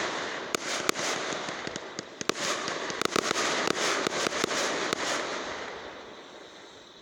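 Fireworks going off: a dense crackle of rapid pops with many sharper bangs through it, dying away over the last second or two.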